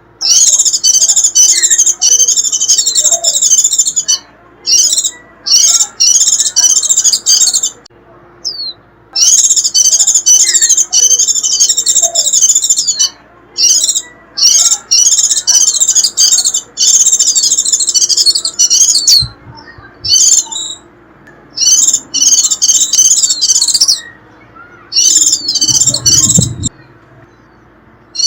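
White-eye giving its shrill, rapid twittering song ('khuyên rít', the call used to lure wild white-eyes) in loud, high bursts of one to several seconds with short pauses between. A brief low rumble comes near the end.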